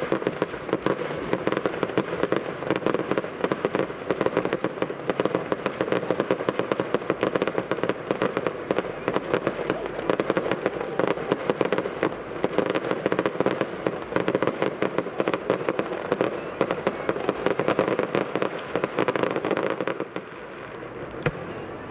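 Aerial fireworks going off in a dense, rapid run of bangs and crackles that goes on without a break, then thins out and dies down about twenty seconds in.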